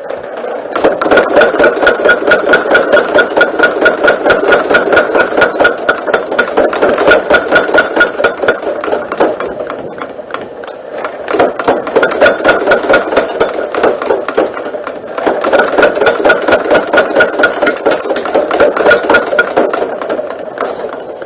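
Motor-driven homemade power hammer running and pounding rapidly, about five blows a second, in three runs with two short pauses between them.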